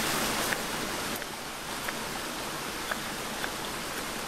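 Steady hiss of falling rain, a little louder in the first second, with a few faint light clicks scattered through it.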